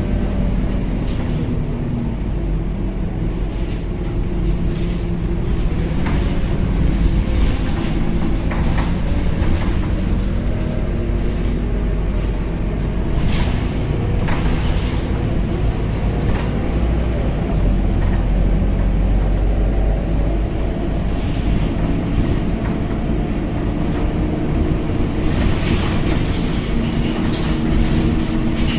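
Interior of a Scania K270UB city bus on the move: a steady low engine and road rumble with scattered knocks and rattles from the bus body, and a faint high whine in the middle.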